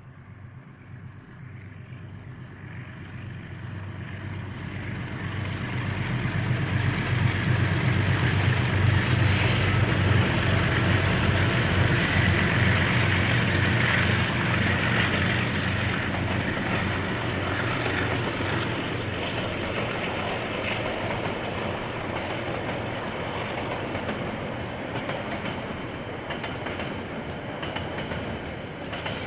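KiwiRail diesel-hauled train approaching and passing. The locomotive's engine and the wheels on the rails grow louder over the first several seconds and are loudest around ten seconds in. The rolling rail noise then slowly fades as the train carries on past.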